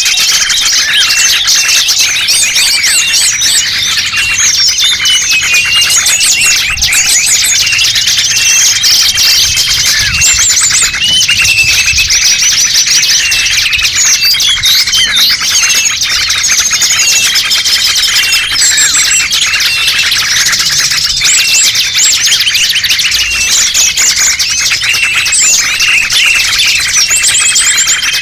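A dense chorus of many small songbirds chirping, trilling and whistling over one another without a break: a lure recording for calling in small wild birds.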